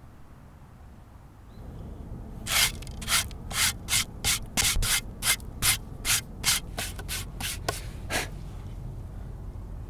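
Hand-sanding a clay pot: a series of about fifteen short strokes, two or three a second, starting about two and a half seconds in and stopping a little past eight seconds.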